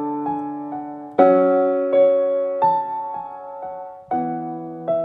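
Solo piano playing a slow, really miserable chord pattern: a full chord struck about a second in and another about four seconds in, each left ringing while single higher notes are picked out above it.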